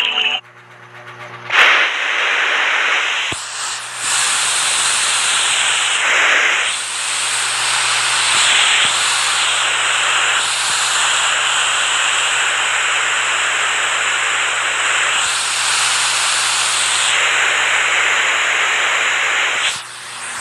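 Rushing water: a loud, steady hiss that starts abruptly about one and a half seconds in and shifts in tone abruptly several times, dipping near the end.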